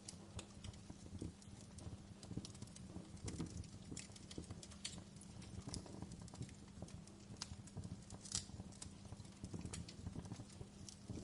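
Campfire wood burning, crackling and popping in irregular sharp snaps, several a second, over a low steady rumble of the fire.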